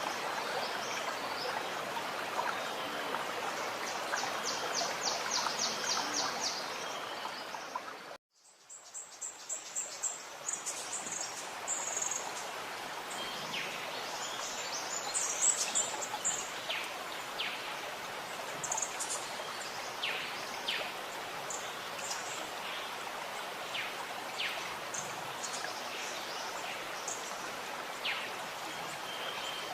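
Gurgling stream of running water with forest birds singing over it: a fast trill about four seconds in, then scattered short chirps and whistles. The whole sound drops out for a moment about eight seconds in and comes back.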